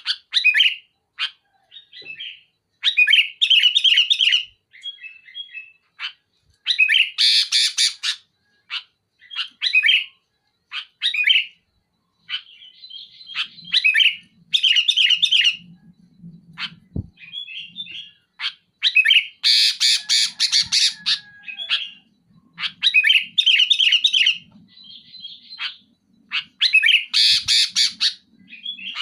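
Sooty-headed bulbul singing in bursts of rapid, loud phrases, mixing clear chirping notes with harsh, rasping runs, with short pauses between phrases.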